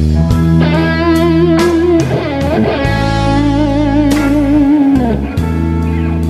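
Electric guitar, a Gibson Les Paul played through a Synergy Syn50 amp head with an AC-style module, playing a slow blues lead. Long held notes swell with wide vibrato.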